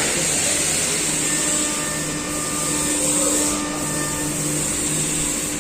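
Workshop machinery running steadily, heard as a continuous hiss over a low hum.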